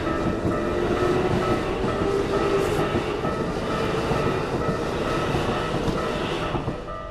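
Keikyu electric train running over a level crossing, its wheels and motors making a loud rumble with a whine that rises in pitch, while the crossing warning bell rings in a steady pulsing pattern. The train noise drops away about a second before the end, leaving the crossing bell.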